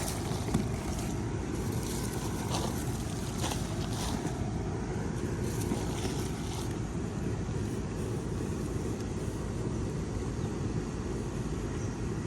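Steady low wind rumble on the microphone, with a few short scrapes and rustles in the first half as the potting soil from a dumped potato container is handled.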